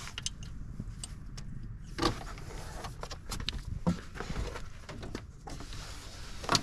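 Scattered clicks and knocks of hand tools and metal parts being handled while working in the tight space around a minivan's starter, over a steady low hum.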